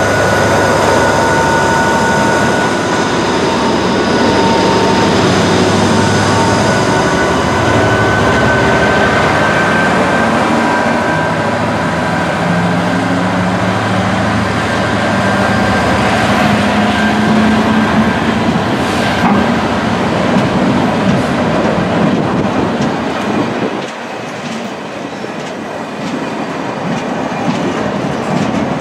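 Class 66 diesel locomotive, its EMD two-stroke V12 running as it passes close by with a steady high whine, followed by a long rake of open box wagons rolling past, their wheels clacking over the rail joints in the later part.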